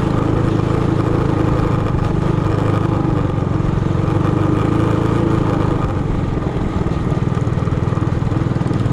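Minibike's small single-cylinder engine running steadily, easing off slightly about six seconds in.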